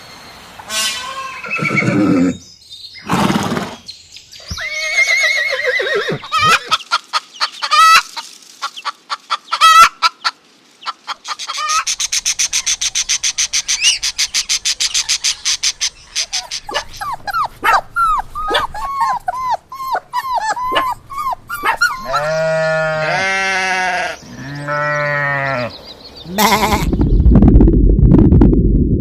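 A run of different animal calls one after another, with several bleats from a goat or sheep a few seconds before the end, then a loud rough noise near the end.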